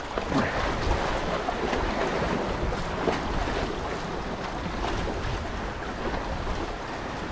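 Steady wind noise on the microphone over moving river water at the shoreline, with a few faint knocks.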